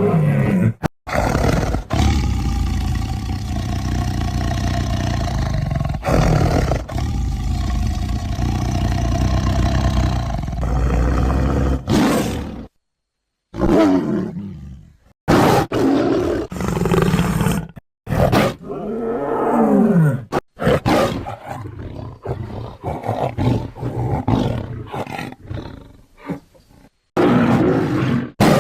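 Big-cat creature sound effects for a Homotherium (scimitar-toothed cat), built from lion and tiger roars. A long, steady, low roar-growl holds for about eleven seconds, then after a short silence comes a run of shorter roars with brief pauses between them.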